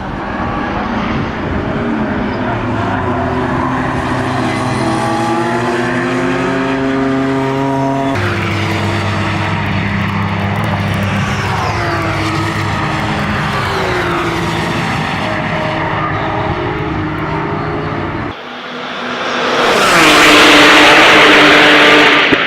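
Porsche 911 GT3 Cup race cars' flat-six engines running at high revs on track, the pitch climbing through the gears and dropping sharply at a shift about a third of the way in. Near the end a car passes close by at full throttle, the loudest part.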